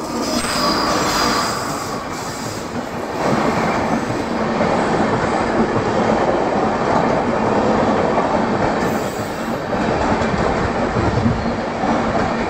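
Passenger train hauled by an electric locomotive passing close by at speed: steady rumble and rattle of wheels on the rails. The locomotive goes by first, with a faint whine, and the coaches follow, louder from about three seconds in.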